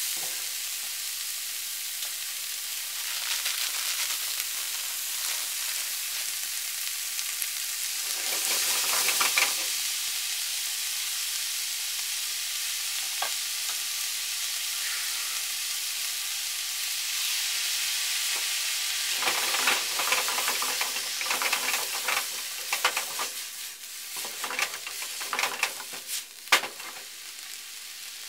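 Pork, vegetables and yakisoba noodles sizzling as they stir-fry in a frying pan, with a louder swell of sizzling about eight seconds in. In the later part, chopsticks toss and stir the noodles, adding irregular clicks and scrapes against the pan.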